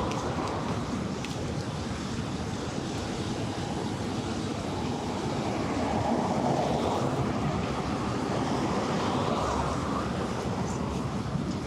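Steady city traffic noise: vehicles running past on a nearby road, with the sound swelling twice as passing cars come closer.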